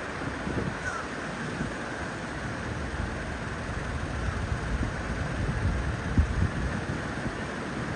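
Wind buffeting the microphone: a steady hiss with irregular low rumbling gusts.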